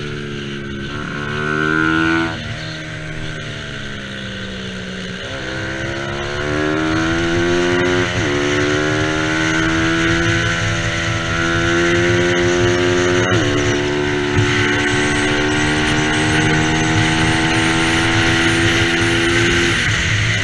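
Bajaj Pulsar 200 NS single-cylinder engine at racing pace. The revs fall off over the first few seconds as it slows for a corner, then climb hard through the gears, with two quick upshifts in the middle, and drop again near the end.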